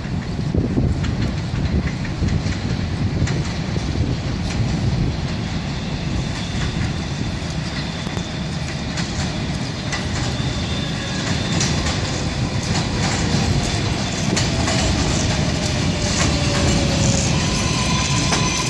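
R142A subway train entering the station: a steady rumble with wheels clicking over the rail joints, and an electric whine that falls in pitch as the train slows. A steady high tone sets in near the end.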